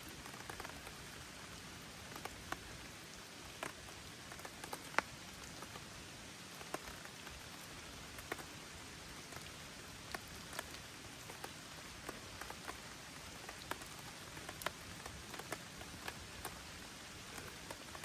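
Gentle rain: a steady hiss with single drops tapping sharply and irregularly, a few of them louder.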